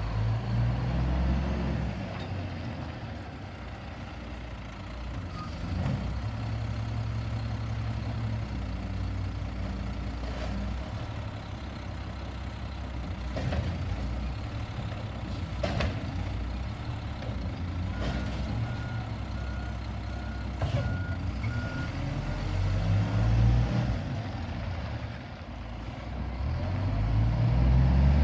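Peterbilt 320 automated side-loader garbage truck's diesel engine running, with a few sharp knocks. Midway through, a run of reversing beeps, about two a second, and near the end the engine revs up.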